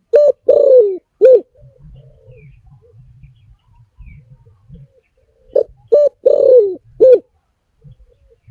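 Spotted dove cooing: two four-note phrases about five and a half seconds apart, each with two short coos, a longer falling coo and a short closing coo.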